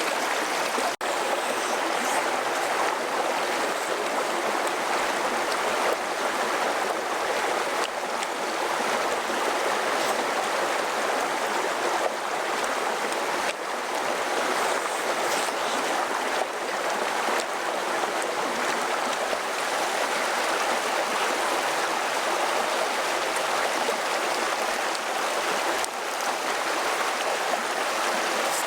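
Steady rushing of flowing water, with a brief dropout about a second in.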